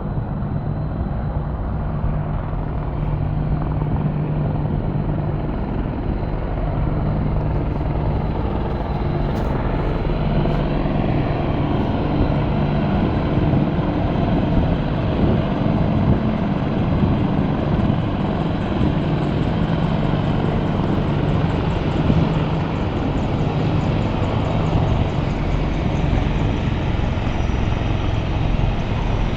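Army helicopter rotor chop and engine noise, steady and loud.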